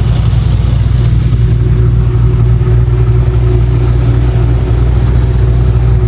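A boat's LS V8 engine running steadily, a loud, even drone with no change in speed.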